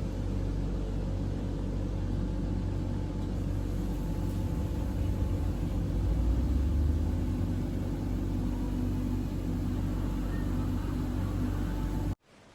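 Steady low rumble of a moving vehicle, swelling a little midway and cutting off abruptly near the end.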